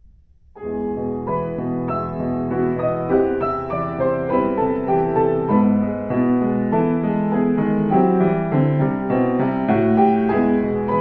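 Piano played four hands (a two-player duet at one keyboard), with low chords under a higher melody; the playing starts about half a second in.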